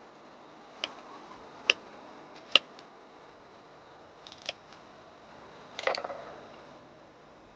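Three sharp clicks about a second apart, then a few light ticks and a short clatter near the end: small hard objects being handled and set down.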